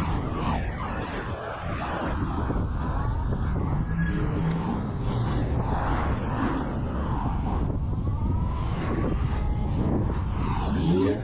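Steady wind rush and road noise from riding a Monday Motorbikes Gateway electric bike at speed, with wind buffeting the microphone. Faint tones that rise and fall can be heard under the noise.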